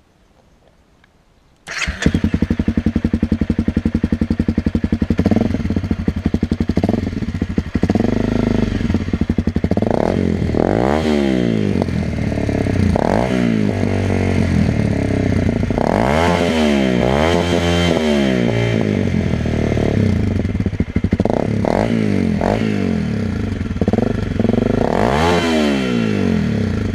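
Honda CRF250L single-cylinder four-stroke engine breathing through an aftermarket GPR Furore Nero exhaust: it starts suddenly about two seconds in and idles, with repeated quick throttle blips that rise and fall in pitch, several in a row near the middle and one more near the end.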